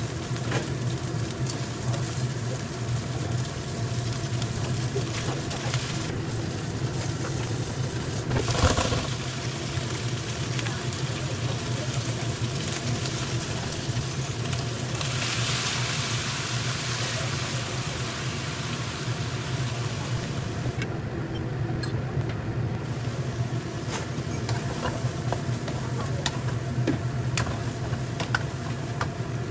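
Food sizzling in hot oil in a non-stick wok over a steady low hum, with a brief clatter about eight seconds in and the sizzling growing louder about fifteen seconds in.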